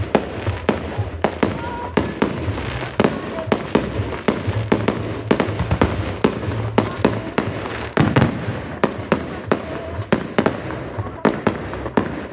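Fireworks going off in a dense, unbroken barrage: sharp bangs and cracks several times a second, irregularly spaced, over a constant low rumble.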